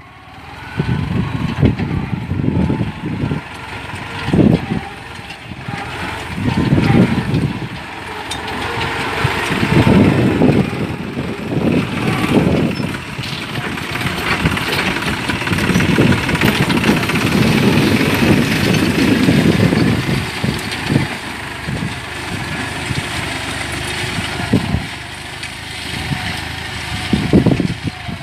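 Diesel engine of a 49-horsepower, 2700 cc New Holland tractor running under load while pulling a six-disc plough, its sound rising and falling over several seconds.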